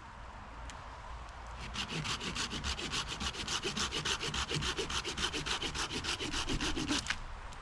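A hand saw cutting through wood in fast, even rasping strokes, about seven or eight a second, starting a couple of seconds in and stopping suddenly near the end.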